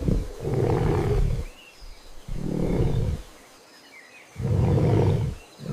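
Deep, rough animal roars, about four in a row, each lasting around a second with short pauses between them.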